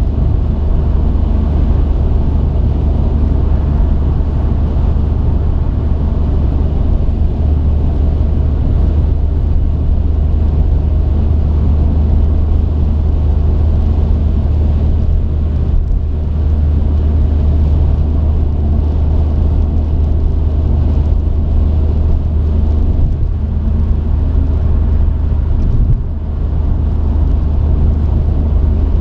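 Truck engine and road noise heard from inside the cab while driving: a steady low drone that dips briefly near the end.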